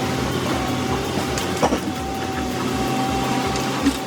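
John Deere 1110E forwarder's diesel engine running steadily, with a steady whine over it and a couple of short knocks.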